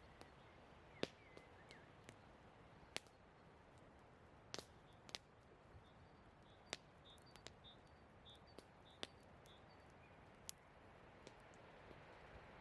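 Burning firewood crackling quietly: a few sharp, irregular pops over a faint steady hiss. Around the middle there is a faint series of short high notes.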